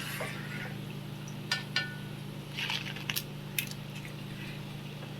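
About five light clinks of kitchen utensils knocking together, spread through a few seconds, a couple with a brief ring, over a steady low hum.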